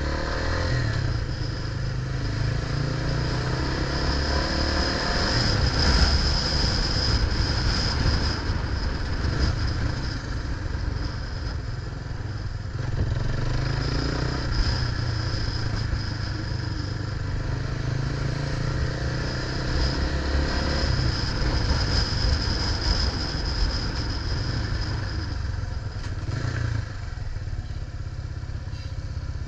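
Wind buffeting the microphone and road noise while riding a bike, with a thin high whine that comes and goes.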